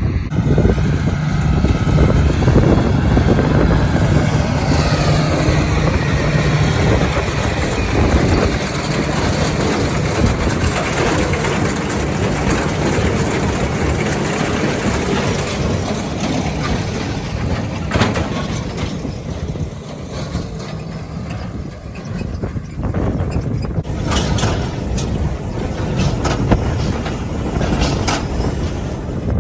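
Tractor pulling a hay baler, running steadily, with a falling pitch in the first few seconds and a few sharp knocks in the second half.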